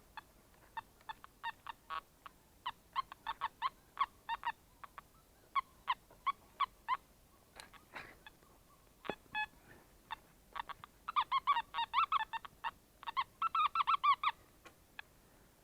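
Nokta Makro metal detector giving short beeps of varying pitch as the coil sweeps the ground, running together into a quick warbling string of tones from about eleven seconds in. A single sharp knock comes about nine seconds in.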